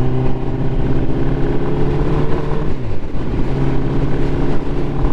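Four-cylinder Ducati motorcycle engine running under way at a steady pitch. The revs drop about three seconds in, then pick up and hold steady again. The engine is misfiring, which the rider takes for running on only three cylinders.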